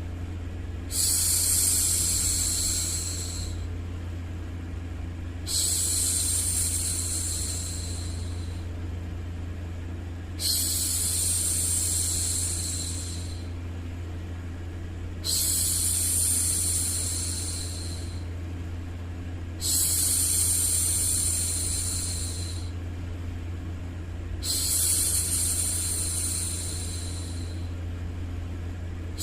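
A woman shushing a baby, 'shhh', in six long hushes of two to three seconds each, about every five seconds, over a steady low hum.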